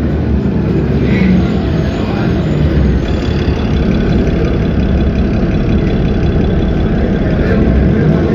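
Cummins ISB 6.7 six-cylinder diesel of an Agrale MT17 city bus running loud and steady, with a faint high whine joining about three seconds in.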